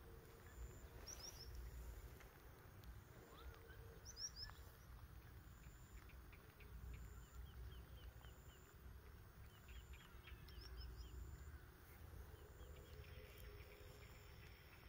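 Quiet outdoor ambience: a faint low rumble, with small birds giving short runs of quick, high chirps a few times.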